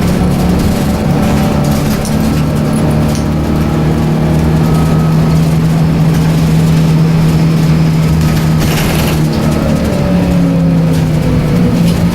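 Scania L94UB bus's rear-mounted 9-litre six-cylinder turbocharged CNG engine running with a steady hum. A brief hiss comes about nine seconds in, and then the engine pitch falls.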